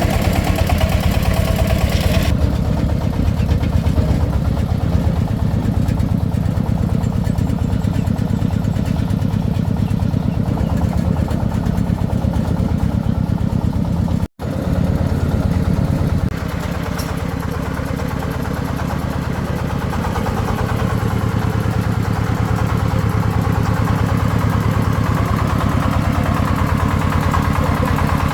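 Single-cylinder diesel engine of a công nông farm vehicle running steadily with a regular chugging beat. About halfway through the sound cuts out for an instant and resumes slightly changed.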